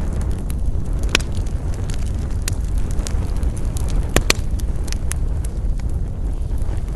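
Campfire burning with irregular sharp pops and crackles, a couple of them loud, over a steady low rumble.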